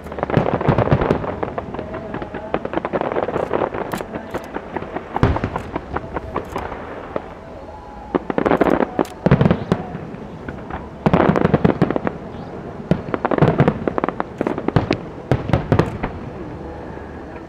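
Aerial fireworks bursting in rapid volleys of cracks and bangs, in several dense clusters with short lulls between, over a crowd's chatter.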